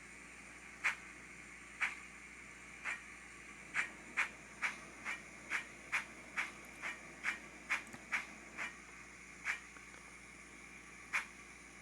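Steam-locomotive exhaust chuffs from a Soundtraxx Econami UK Steam DCC sound decoder, played faintly through the small speaker in the model's tender over a steady hiss. The chuffs start about a second apart, quicken to about two a second mid-way, then slow to about one a second near the end.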